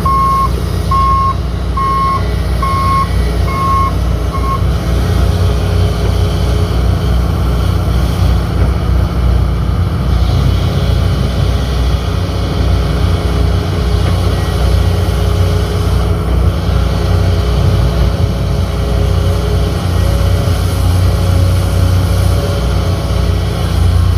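Heavy mining machinery's diesel engine running steadily, with a backup alarm beeping six times, about one beep a second, in the first few seconds.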